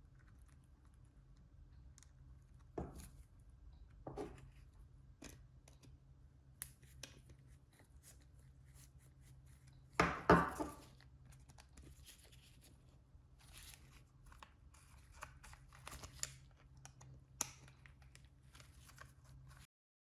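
Scattered small clicks and rustles of objects being handled, with one louder rasping, tearing-like sound about ten seconds in, over a low steady hum.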